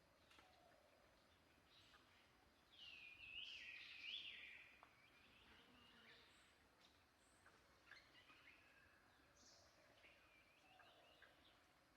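Faint birdsong: a run of chirping, warbling notes about three seconds in, the loudest part, with scattered softer chirps before and after over a faint outdoor hiss.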